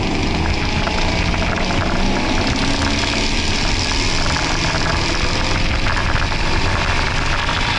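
Ford Focus RS's 2.3-litre turbocharged four-cylinder heard from inside the cabin, pulling hard with its revs climbing slowly, under a steady loud rush of noise.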